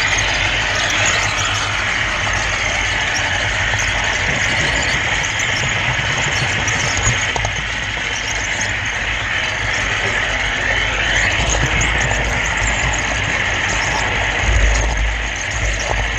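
Model railroad camera car rolling along the track, heard from the GoPro riding on it: a steady rushing rumble of wheels on rail that swells briefly near the end.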